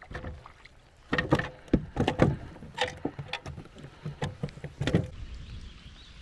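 Irregular knocks and thumps on a fishing kayak as things are handled on board.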